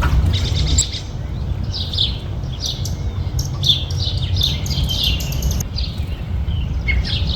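Small birds chirping: quick runs of short, high, falling chirps, busiest in the middle, over a steady low rumble.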